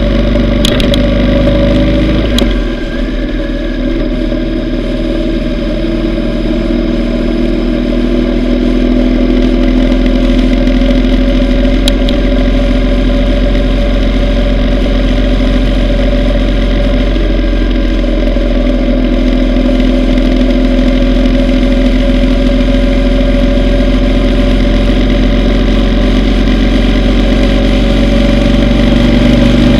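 Yamaha V Star 950's V-twin engine running steadily under way. The engine note eases off about two seconds in, then slowly builds back up.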